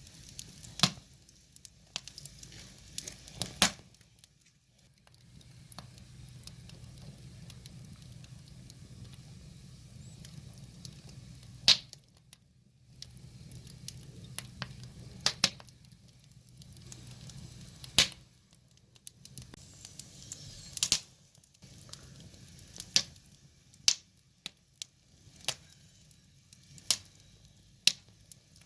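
Wood fire burning, with sharp crackles and pops of burning logs coming at irregular intervals over a soft hiss and sizzle.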